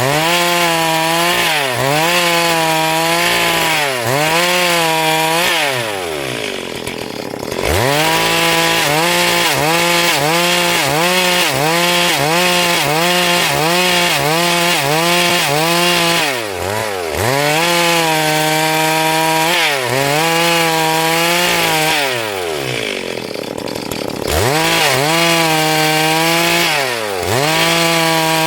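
Stihl MS382 two-stroke chainsaw running at high revs while ripping a log, its pitch dipping briefly every couple of seconds. Twice, about six seconds in and again about twenty-two seconds in, it falls back toward idle for a second or two and then revs up again.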